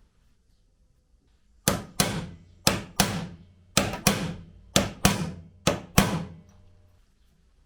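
Hammer strikes, about ten blows falling in quick pairs, each leaving a short ringing tail.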